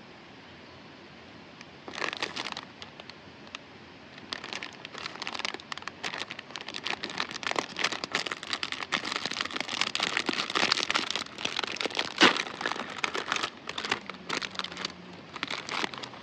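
Packaging crinkling and crackling as it is handled up close: a short burst, then a long stretch of irregular crinkles with a sharp crackle near the end.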